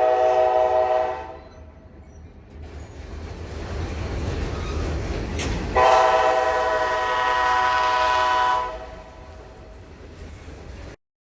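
Diesel locomotive's multi-note air horn sounding two long chords, about five seconds apart, over the rising rumble and wheel noise of a passing train. The sound cuts off abruptly near the end.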